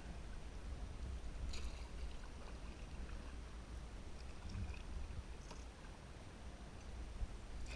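Wind buffeting the microphone as an uneven low rumble, over the faint water noise of a canoe being paddled, with a few light knocks.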